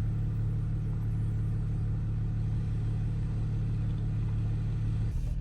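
Jeep Wrangler driving at a steady speed, a low, even engine and road drone.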